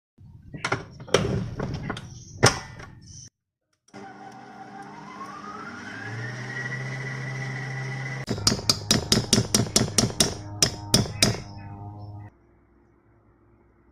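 Kitchen utensils clicking and knocking, then an electric mixer's motor spinning up with a rising whine and running steadily. Near the end comes a rapid run of knocks, about four a second, over the motor before it cuts off suddenly.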